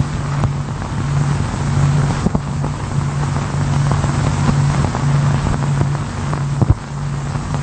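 Heavy machinery running at a steady drone, with a low hum that swells and fades in an uneven pulse over a constant hiss, and a couple of sharp clicks.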